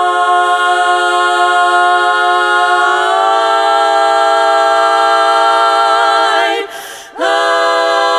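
Unaccompanied voices singing in close harmony, holding a sustained chord. The chord shifts about three seconds in, then breaks off briefly about seven seconds in before a new chord starts.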